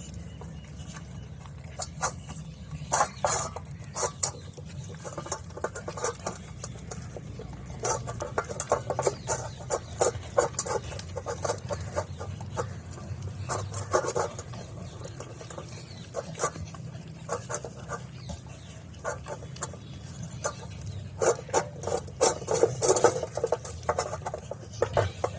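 A dog eating from a bowl: irregular runs of short, wet chewing and mouthing sounds, heaviest in a few clusters, over a steady low hum.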